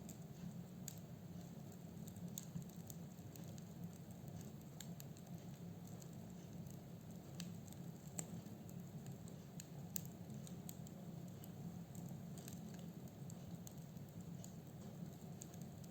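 Wood burning in a fireplace: scattered crackles and pops from the logs over a steady low rumble of the flames.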